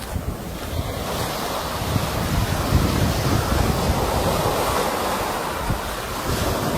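Sea waves breaking and washing up as a steady rushing hiss, with wind buffeting the microphone as a low, gusty rumble. A wave surge builds about a second in and holds.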